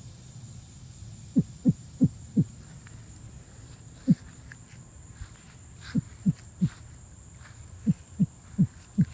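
Short, low animal calls, each dropping in pitch. They come in runs of three or four, about a third of a second apart, with one call on its own between the runs.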